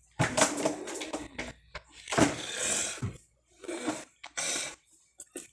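Close-up mouth sounds of a person chewing soft pineapple cake, coming in about five short bursts separated by silent gaps.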